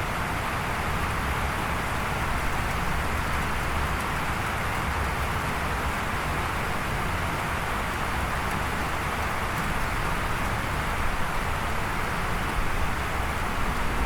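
Steady rain falling, an even hiss with a low rumble underneath and no distinct drops or thunderclaps.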